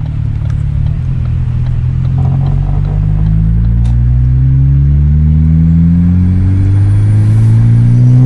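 A car engine running under steady acceleration, its pitch climbing slowly and evenly and its level rising over about eight seconds without a gear change.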